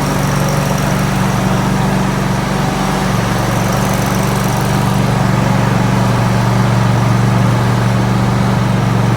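Spartan RZ zero-turn mower's 724 cc engine running steadily, its note shifting slightly about three seconds in.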